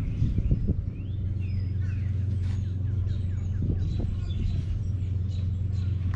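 Small birds chirping intermittently over a steady low hum.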